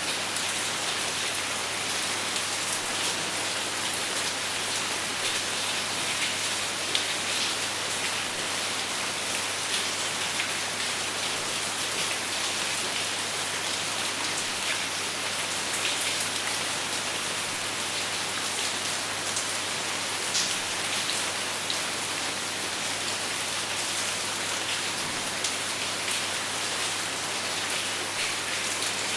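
Steady rain falling on a surface, without thunder: a dense, even hiss dotted with the small ticks of individual drops.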